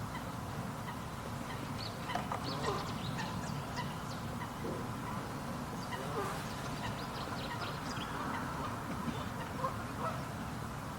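Birds calling in many scattered short calls over a steady low background rumble.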